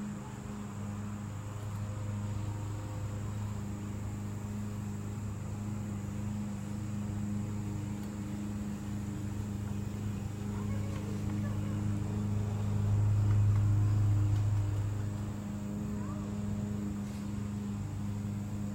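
A steady low mechanical hum with a faint high whine above it, swelling louder for a couple of seconds about thirteen seconds in.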